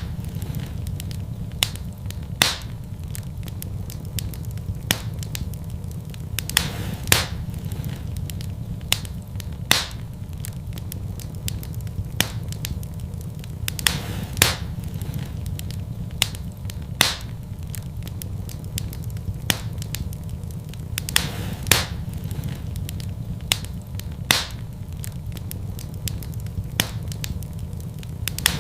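Fire crackling in a fireplace: sharp, irregular pops about every one to two seconds over a steady low rumble of the flames.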